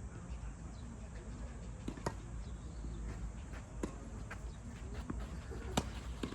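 Tennis ball struck by rackets and bouncing during a rally: a few sharp pops roughly two seconds apart, the loudest near the end, over a steady low rumble.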